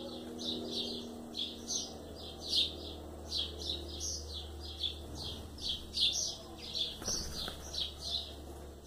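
Bird chirping: a steady run of short, high chirps, about three to four a second, over a faint low hum.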